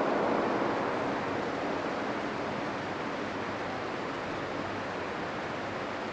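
Distant train rumbling and fading away over the first two seconds or so, leaving a steady rushing noise in the snowy valley.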